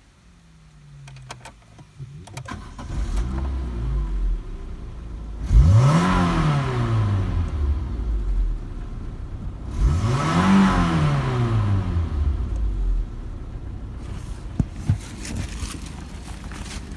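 Renault F3R 2.0-litre four-cylinder petrol engine running at idle and revved twice, each rev rising in pitch and falling back to idle. It drops to a quieter level near the end, with a few clicks.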